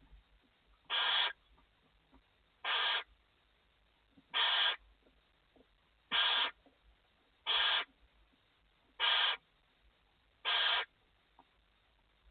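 Barn owl in the nest box giving a short hissing call over and over, about once every one and a half seconds, seven times.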